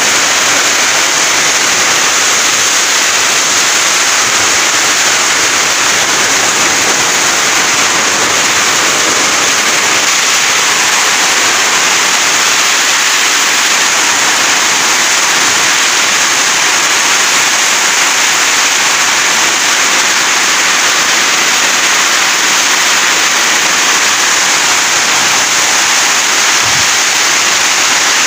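Heavy rain pouring down in a steady, loud, unbroken rush.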